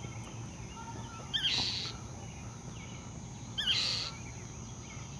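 A bird giving harsh scolding calls twice, about two seconds apart, each with quick rising notes: the alarm calls of a nesting mother bird defending against a cat.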